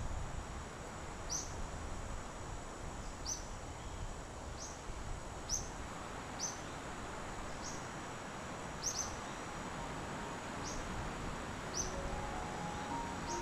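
A bird repeating a short, sharp falling chirp about once a second over a steady hiss and a thin, steady high whine. A few soft held music notes come in near the end.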